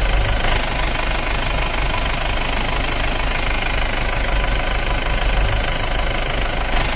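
Steady engine-like running sound, a continuous low pulsing rumble with a few steady whining tones above it.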